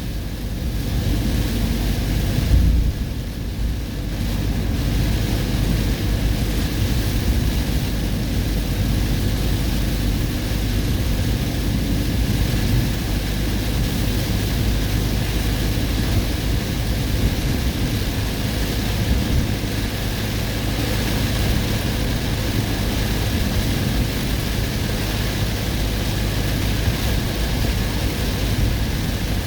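A car driving through a heavy summer rainstorm: steady rain noise over a low road and engine rumble, with a brief louder thump about two and a half seconds in.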